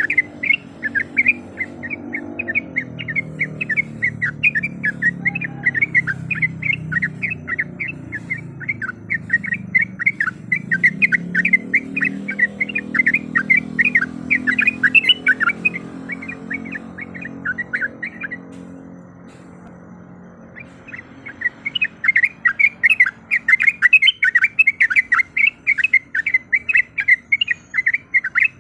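Yellow-vented bulbul (trucuk) giving a fast chattering series of short, sharp calls, several a second. The calls break off for a couple of seconds about two-thirds of the way through, then start again.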